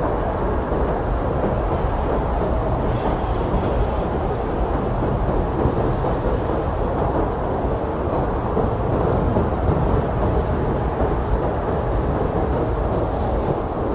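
Strong blizzard wind blowing steadily: a loud, low, unbroken rushing noise with little hiss on top.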